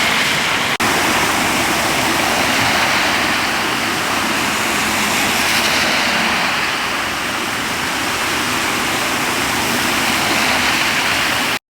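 Steady rush of running floodwater, with a momentary dropout a little under a second in. It cuts off abruptly near the end.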